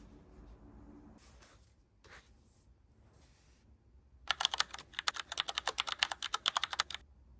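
Fast typing on a keyboard: a quick run of clicking keystrokes lasting about three seconds, starting a little over halfway through, after a few faint rustles.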